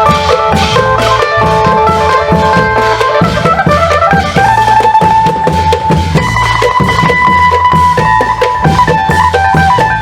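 Isan klong yao long-drum ensemble playing a steady, driving rhythm, with an amplified phin (Isan lute) carrying the melody above the drums.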